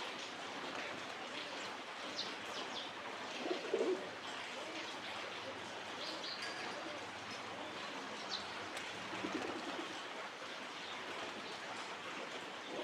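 Pigeons cooing, two low calls about three and a half seconds in and again about nine seconds in, with a few short high bird chirps over a steady hiss.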